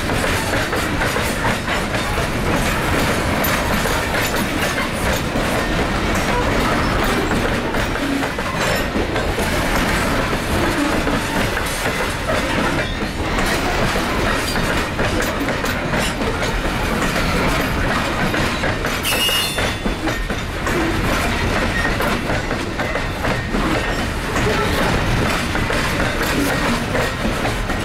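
Freight train of open-top hopper cars rolling past at close range: steady wheel-on-rail noise with clickety-clack as the wheels cross rail joints. A brief high wheel squeal comes about two-thirds of the way through.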